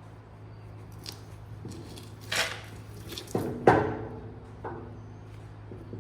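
Metal clinks and knocks from steel suspension bushing parts and tools being handled and fitted, about six of them, each with a short ring; the loudest comes a little past halfway. A steady low hum runs underneath.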